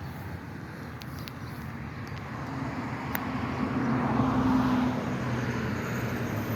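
A car driving past, its engine and tyre noise swelling to a peak about four seconds in and then easing off.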